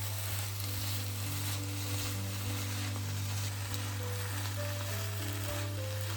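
Food sizzling in hot oil in a frying pan: a steady frying hiss under background music.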